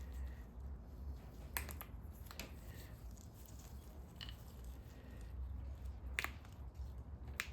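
Scattered light clicks and metal taps of hand tools and parts being handled on an air-cooled VW engine's bottom plate, a few seconds apart, over a low steady hum.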